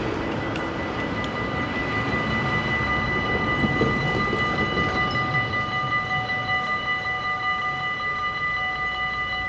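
Dutch level-crossing bell ringing steadily, with the rumble of a passing train slowly fading underneath.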